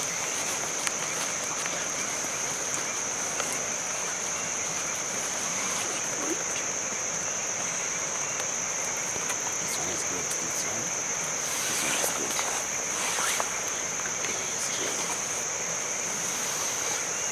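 Insects trill steadily on one high tone over a constant hiss of rain, with scattered small clicks and a brief stretch of louder rustling about twelve seconds in.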